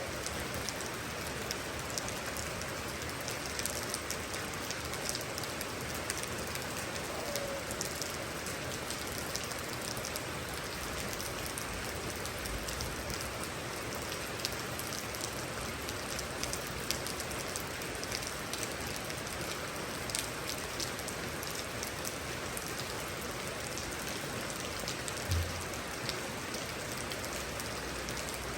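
Steady rain falling on a surface, a continuous hiss with many individual drops ticking, and a brief low thump about 25 seconds in.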